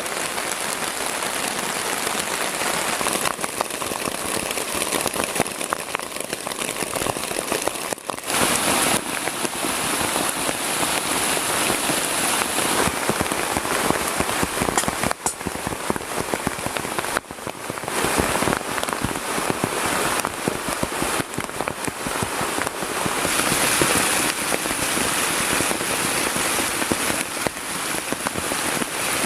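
Heavy rain falling steadily, a dense crackling patter of drops hitting a surface, with its intensity shifting abruptly a few times.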